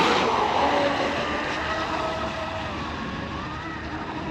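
Electric RC hydroplane under way, its 3660 brushless motor whining over the hiss of the hull and spray on the water. It starts abruptly and gets gradually quieter, with the motor pitch wavering as the throttle changes.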